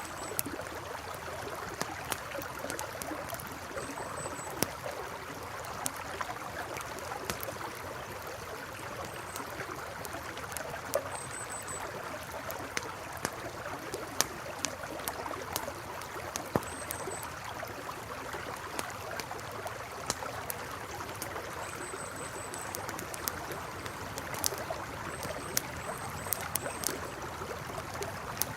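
A river flowing steadily, with a campfire crackling over it in sharp, scattered pops.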